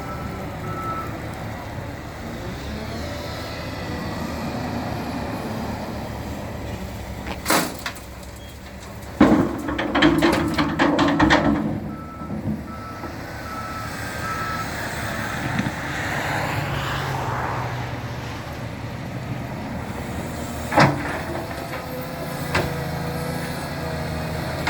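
Shovel loader's engine running steadily, with its reversing beeper sounding in short repeated beeps. Sharp knocks and a loud burst of clattering from about nine to twelve seconds in, from the loader handling cut trees.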